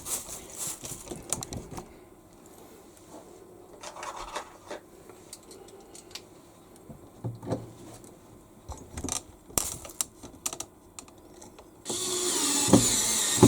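Light clicks and taps of screws and a hand screwdriver working on the washing machine's plastic parts. About twelve seconds in, a cordless power driver starts running with a steady high whine.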